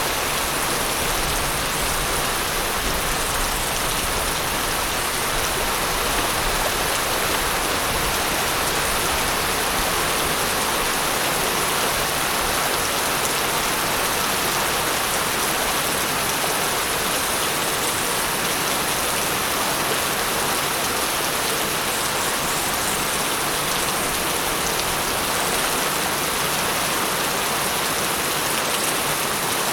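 Steady rainfall, a continuous even hiss of rain falling on surfaces, unchanging in level.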